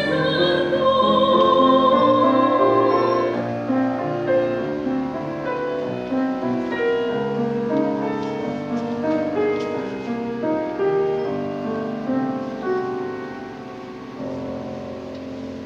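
Classical art song for voice and piano: an operatic singer holds a note with wide vibrato until about three seconds in, then the piano plays on alone, slowly getting quieter.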